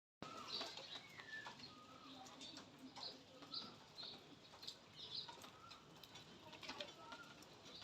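Birds calling faintly: many short high chirps and a few sliding whistles.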